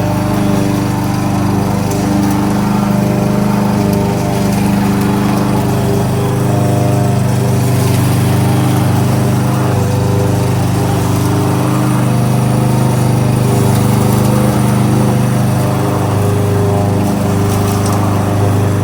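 Kohler XT-675 single-cylinder engine on a Yardworks push lawnmower running steadily, its pitch wavering slightly.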